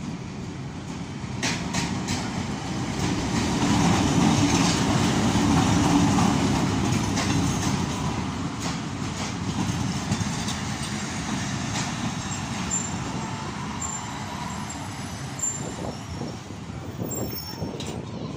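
A diesel-hauled passenger train runs past at close range: the locomotive's rumble swells to its loudest about four to six seconds in, then eases as the coaches roll by with wheels clacking over the rail joints. Brief, faint high squeals come from the train in the second half.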